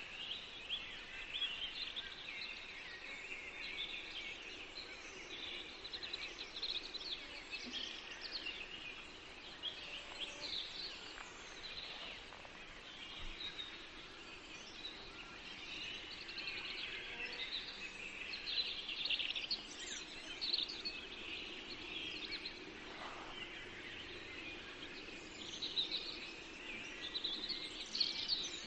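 Several songbirds chirping and trilling on and off over a faint steady hiss of forest ambience.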